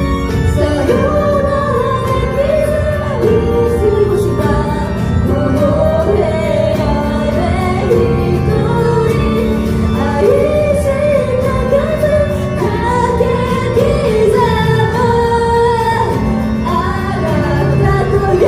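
Female voices singing a pop song over a loud backing track, with a sung melody that moves between held notes.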